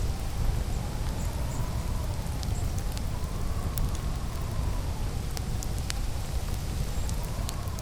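Campfire crackling, with scattered sharp pops and snaps over a steady low rumble of wind. A faint whistle of wind slowly rises and falls in pitch.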